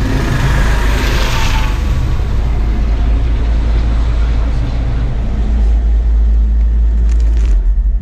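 Helicopter running close by: a loud, steady low rotor and engine drone with a rushing noise over it.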